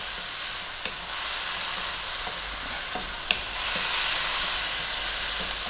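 Diced tomatoes and onions sizzling in hot oil in a nonstick wok, cooking down until the tomatoes release their juice, while a wooden spatula stirs them. A couple of light knocks come from the spatula against the pan, and the sizzle grows a little louder past halfway.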